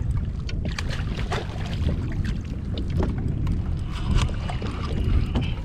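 Wind buffeting the microphone over water lapping and splashing against a kayak hull, with scattered short clicks and knocks.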